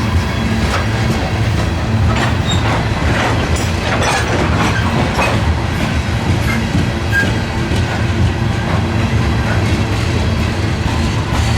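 A train rolling past with a steady, heavy rumble. Its wheels clack over rail joints, most thickly a couple of seconds in, and give a few brief high squeals.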